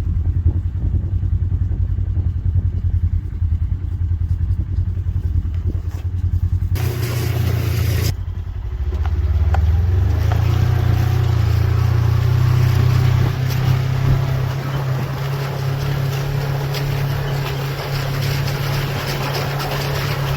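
Polaris Ranger utility vehicle's engine running as it drives, a steady low drone that rises in pitch about eight seconds in as the vehicle speeds up and then holds there. A brief loud hiss comes just before the rise, and a steady hiss lies over the engine afterwards.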